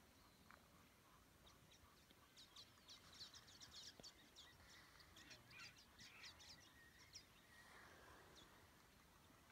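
Near silence with faint, rapid high bird chirps and calls, busiest in the middle.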